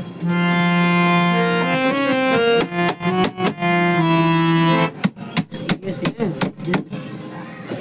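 Harmonium reeds sounding held chords and a few changing notes for about five seconds, then stopping. A run of sharp clicks and taps follows.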